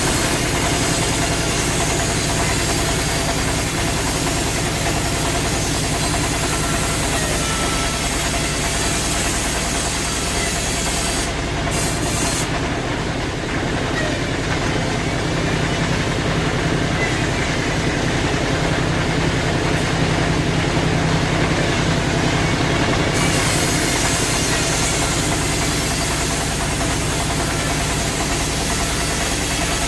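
Sawmill machinery running steadily: a low motor hum under dense, loud mechanical noise, the upper hiss easing for a stretch in the middle.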